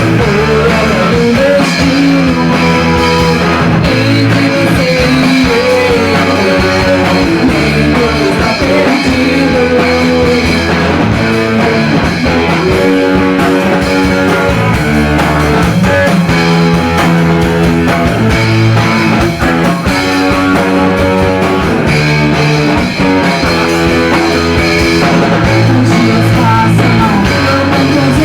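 Rock music led by guitar, loud and dense.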